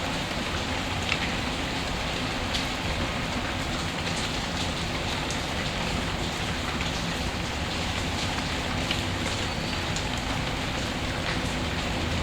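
Steady rain ambience, an even hiss of falling rain, mixed with a fireplace whose crackle gives scattered sharp ticks.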